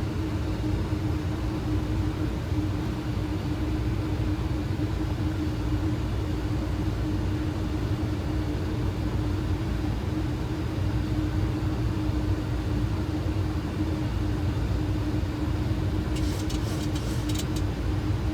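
Boeing 737 flight deck noise during the approach: a steady rush of airflow around the cockpit with a constant low hum. A short run of clicks comes about two seconds before the end.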